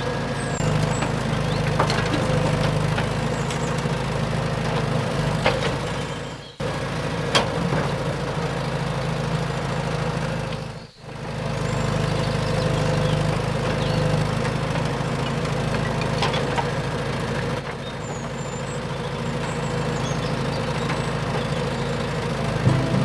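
A low engine sound idling steadily, with scattered light clicks and ticks over it; it cuts out sharply for a moment twice.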